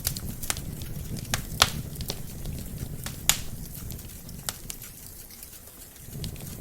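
Wood fire burning in a fireplace: irregular sharp crackles and pops from the burning logs, two louder pops about a second and a half apart, over a steady low rumble of flame.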